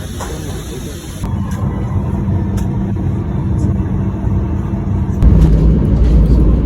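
A vehicle's steady low rumble, changing abruptly about a second in and growing much louder about five seconds in.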